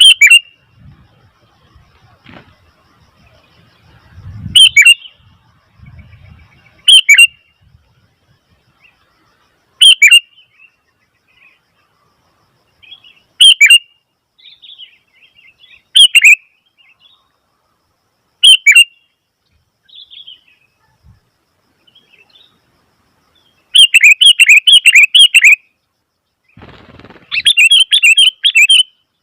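Sooty-headed bulbul calling loudly: short, sharp, shrill notes every two to three seconds, then two rapid runs of repeated notes near the end.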